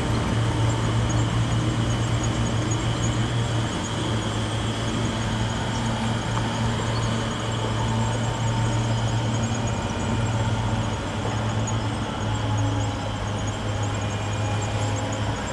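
Bulldozer's diesel engine running steadily, a low drone that briefly drops out a few times.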